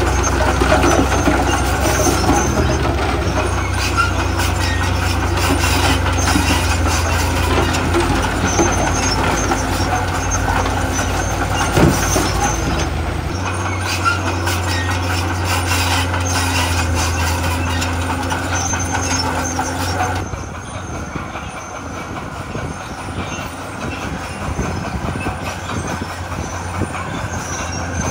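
Heavy diesel earthmoving machinery working: a steady low engine drone under a rough grinding noise, with one sharp knock about twelve seconds in. The sound changes abruptly about thirteen and twenty seconds in, and after the second change it is quieter and thinner.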